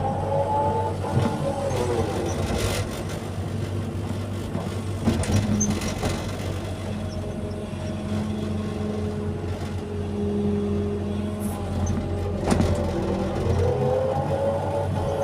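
Excavator diesel engine running steadily under load, with hydraulic whine rising and falling as the machine works. A few sharp knocks, the loudest about twelve seconds in.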